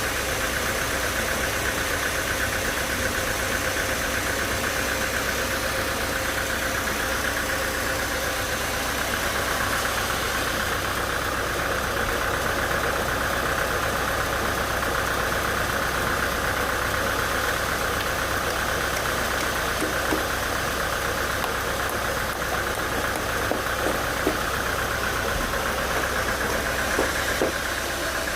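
Sawmill machinery running steadily, a constant mechanical noise with a steady whine, and a few light knocks in the last third.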